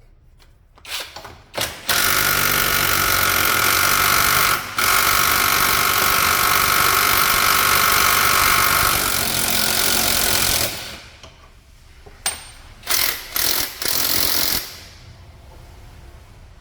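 Impact wrench hammering on a very tight suspension bolt. One long run of about nine seconds with a brief break, then a few short bursts as the bolt comes loose.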